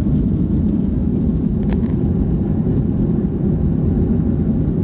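Steady, even rumble of a Boeing 737-300 airliner's CFM56 engines and airflow, heard from inside the cabin. A brief faint high sound shows just under two seconds in.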